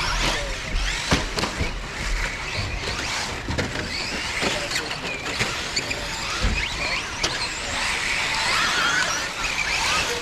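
Several radio-controlled off-road race cars running on a dirt track. Their motors whine in short rises and falls with the throttle, with scattered clicks and knocks from landings and hits.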